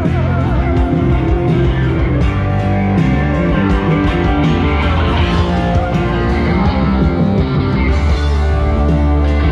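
Live band playing an instrumental passage: guitar over a steady bass line and drums.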